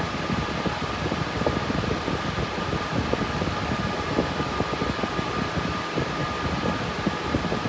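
Cooling fans of a cryptocurrency mining rig built on RTX 3060 Ti graphics cards, running under mining load: a steady whir with a thin, constant whine over it.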